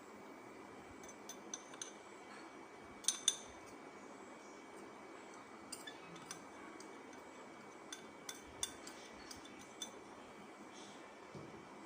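Spoon clinking and tapping against bowls as spice powders and paste are added to raw chicken, a scattered run of light clicks with the loudest pair about three seconds in.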